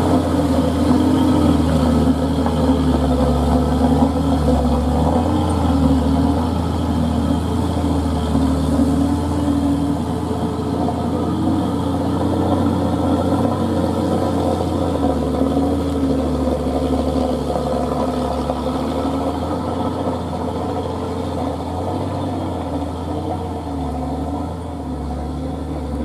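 Engine of a heavy old truck running steadily at a low, even speed, its pitch wavering slightly and the sound slowly getting a little quieter.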